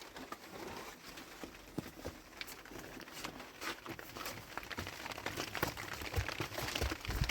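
Light rustling with scattered small clicks and taps, as of things being handled.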